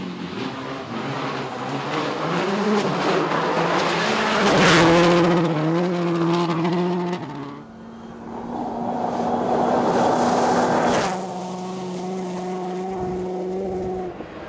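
Rally car engine revving hard and climbing in pitch, with a loud burst of noise about five seconds in. It drops off briefly halfway through, then comes back and holds a steady note.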